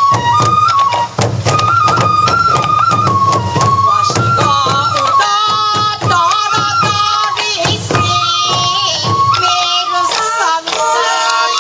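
Traditional Sansa odori music: a high bamboo flute plays a stepping melody over steady, rapid taiko drum beats.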